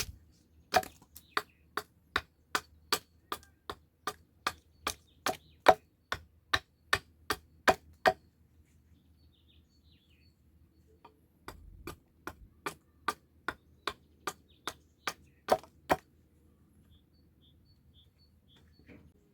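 A tool striking wood in rapid, evenly paced blows, about three a second, in two long runs with a pause of a few seconds between them.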